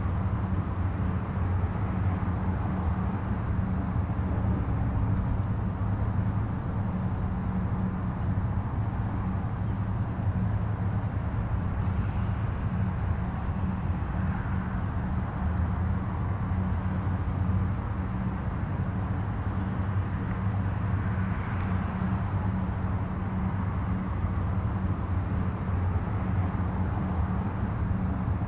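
Steady low rumble and hiss of distant highway traffic, swelling gently twice as vehicles pass nearer.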